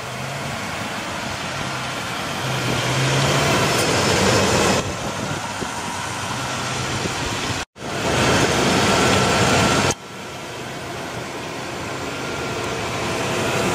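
A 1998 Chevrolet Silverado 3500's 7.4-litre (454) Vortec V8 idling steadily. The sound breaks off abruptly a few times, with a brief dropout near the middle.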